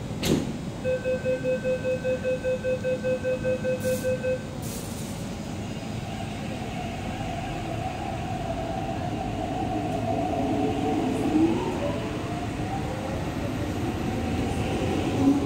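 An MTR East Rail Line electric train's doors shut with a knock. A rapid electronic warning beep follows, about five beeps a second for some three and a half seconds. Then the train pulls away, its traction motors whining in rising, shifting tones over a steady rumble.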